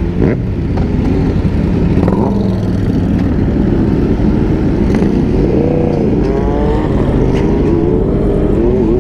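Motorcycle engine running while riding, with wind rush on the helmet microphone; the engine note rises and falls in pitch in the second half.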